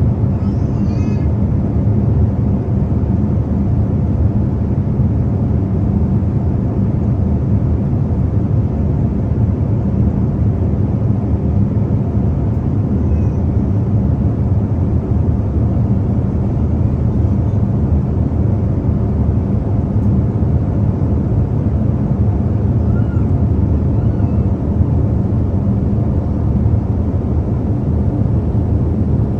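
Steady cabin noise of an airliner in flight heard from a window seat: an even, unbroken drone of engines and airflow, heaviest in the low end. A faint, brief high wavering sound comes about a second in.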